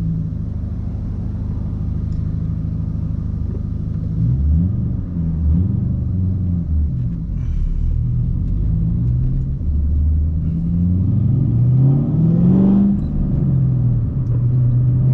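Straight-piped 4.6-litre three-valve V8 of a 2010 Ford Mustang GT running while driving, without much drone. The note holds steady at first, then rises and falls several times, climbing highest a little before the end before settling back to a steady tone.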